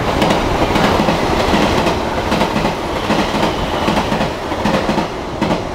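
JR Kyushu 883 series limited express electric train passing through the station at speed, with a loud rapid clatter of its wheels over the rail joints that eases near the end.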